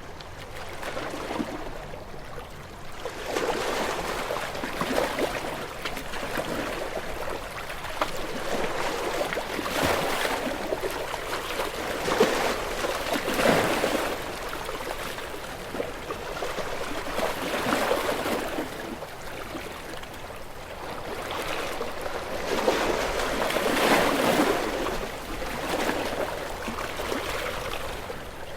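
Sea waves washing against shore rocks: surges of rushing, splashing water that swell and fade every four to five seconds.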